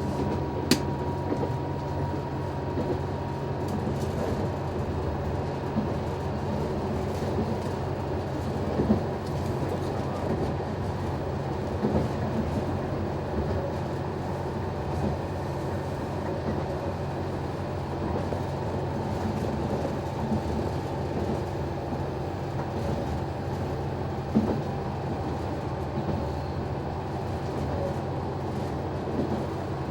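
Noto Railway NT100 diesel railcar running, with its engine giving a steady drone and the wheels clacking sharply over rail joints now and then.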